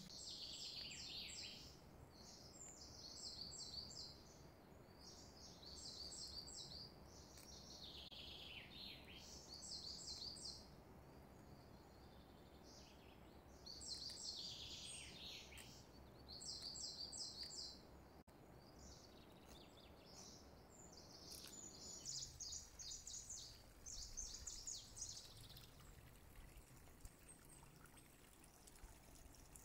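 Faint bird chirping: short bursts of quick, high chirps and trills, some sweeping down in pitch, repeating every second or two over a low steady background noise.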